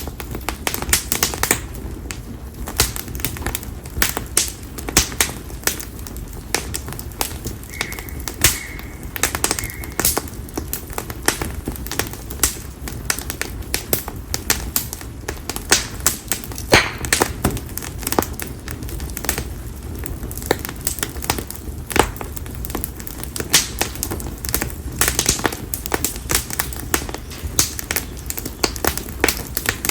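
Konara oak firewood burning in an open campfire, popping and crackling with many sharp irregular snaps over a steady low rumble of flame. A faint high bird note is heard briefly about a third of the way in.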